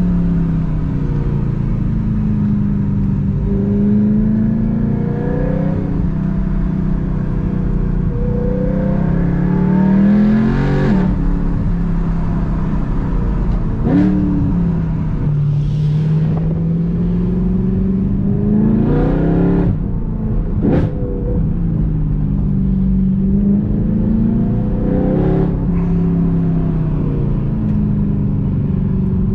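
BMW E92 M3's 4.0-litre V8 with a loud exhaust, driven hard through the gears. The engine note climbs under acceleration and drops back at each upshift, several times over. Brief sharp cracks come at several of the shifts.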